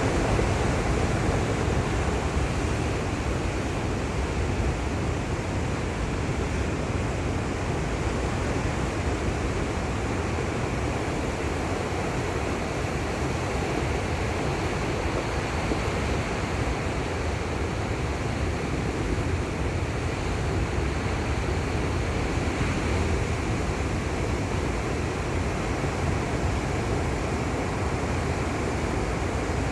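Ocean surf breaking along the shore, a steady rushing wash of waves.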